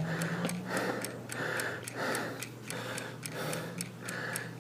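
Clock ticking steadily, about three ticks a second, with a rhythmic breathy sound about twice a second underneath.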